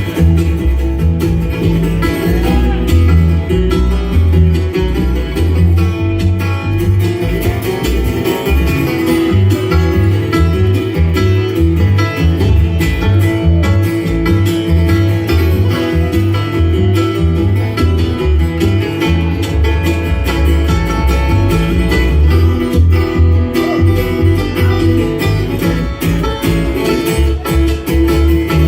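A bluegrass band playing an instrumental passage: picked acoustic guitar and banjo over a steady bass line, with no singing.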